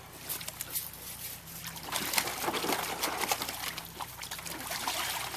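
A dog moving about in a shallow pool of water, the water sloshing and splashing irregularly, busier from about two seconds in.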